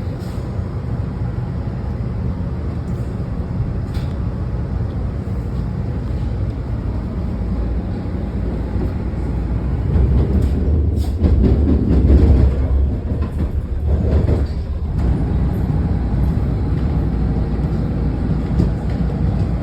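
Washington Metro train running on the rails, heard from inside the car as it gets under way after leaving a station. A steady low rumble swells louder about halfway through, with a few clicks, then settles.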